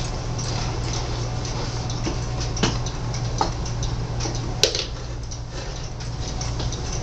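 Rebuilt 1865 wooden-cased mechanical clock ticking, with a few louder knocks in the middle as the clock is handled and set down. A steady low hum runs underneath.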